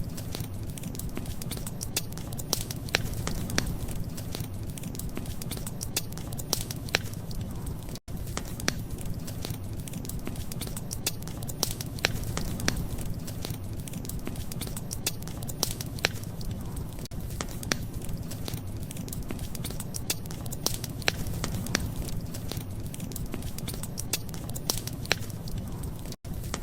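Wood fire crackling: irregular sharp pops and snaps over a steady low rumble. The sound cuts out for an instant about eight seconds in and again near the end.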